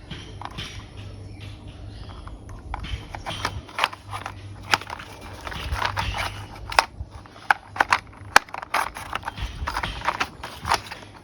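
Plastic toy vehicle parts clicking and clattering irregularly as they are handled and fitted together, with a steady low hum underneath.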